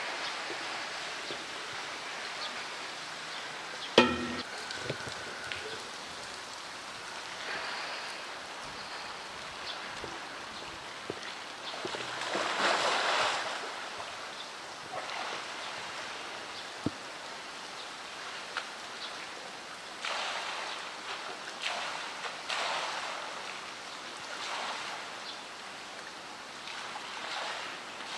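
Steady heavy rain hissing on the water, with swells of splashing and sloshing as a polar bear swims through the pool, loudest around the middle and again in the last third. A single sharp knock about four seconds in.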